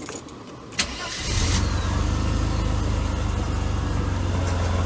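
Mercedes-Benz W124 300E straight-six started: a click and a brief crank about a second in, then it catches and settles into a steady idle with a deep, even exhaust drone. A little of the exhaust leak is still heard through the temporary patch.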